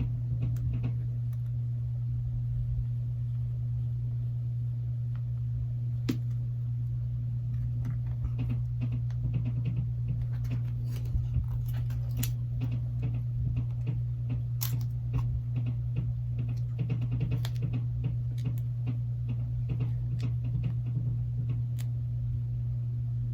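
Small tools clicking and scraping on a phone's old back housing while a side button is pried off, scattered irregular ticks over a steady low hum.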